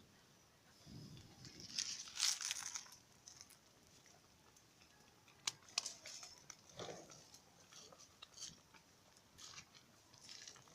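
Dry firewood sticks being handled for a cooking fire: scattered crunches, snaps and sharp clicks, with the loudest crunches about 2 s and 6 s in.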